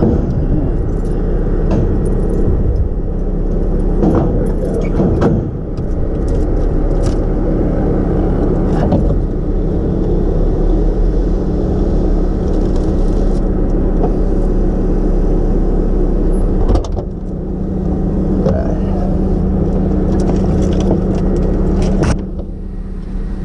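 Vehicle engine idling steadily, with scattered clicks and knocks of gear being handled.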